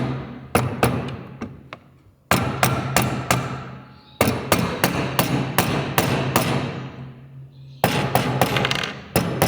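Quick hammer taps on motorcycle engine parts during a rebuild, in five bursts of rapid strikes, about four or five a second, with short pauses between the bursts.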